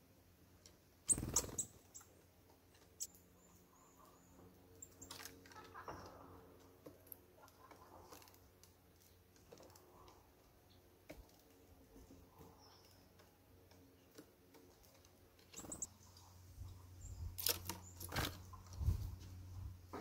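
Small birds, tits and nuthatches, at a wooden bird feeder: scattered sharp taps and knocks, busiest about a second in and again near the end, with a few short, thin, high calls.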